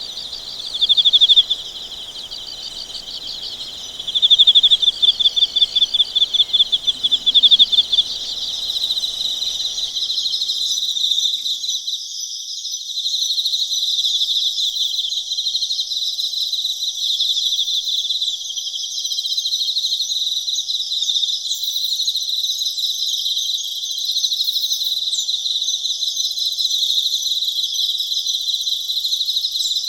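Chorus of autumn night insects chirping in high-pitched pulsed trills. In the first few seconds a few loud pulsing trills stand out. About ten seconds in the sound changes abruptly to a denser, steady chorus of chirping.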